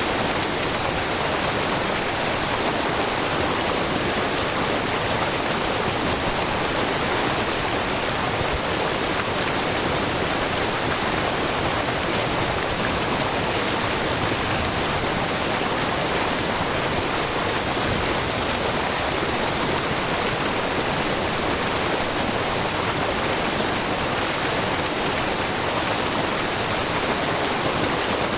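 Steady, even rush of a wide, low waterfall: many thin streams of spring water spilling down a rock face.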